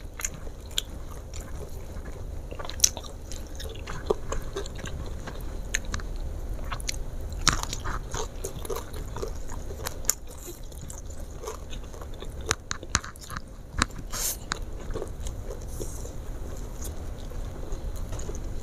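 Close-miked chewing and crunching of crispy fried chicken, fried garlic and rice, with scattered short crisp clicks as she bites and eats.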